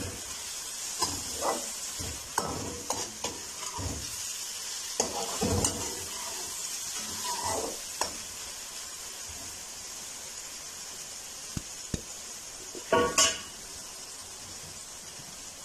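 Capsicum, tomato and masala with soy sauce sizzling in oil in a metal wok, stirred with a perforated metal spoon that scrapes and taps against the pan for the first eight seconds or so. After that the sizzle goes on alone, with a short metal clatter about thirteen seconds in.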